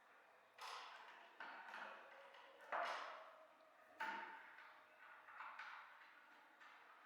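Faint, light metallic knocks and clinks, about five over a few seconds, each ringing briefly, from tools and metal parts being handled and set down.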